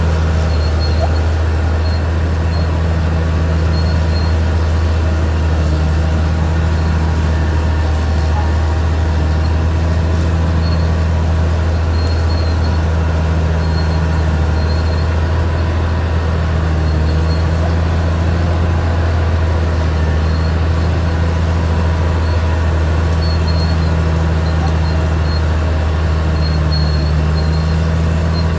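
Caterpillar D6R XL bulldozer's diesel engine running steadily, a loud low drone with a fainter layer above it that swells and fades every couple of seconds.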